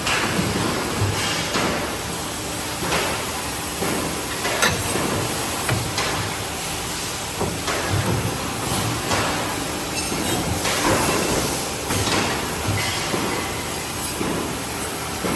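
Hydraulic CNC tube bending machine at work, bending steel tube: clanks and knocks every second or two over steady machine noise.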